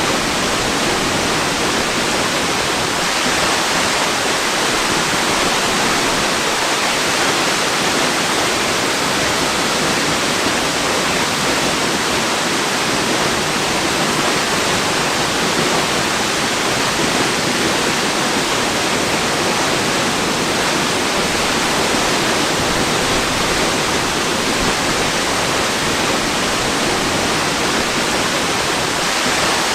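Waterfall rushing as an even, unbroken hiss that does not change, strongest in the upper-middle range.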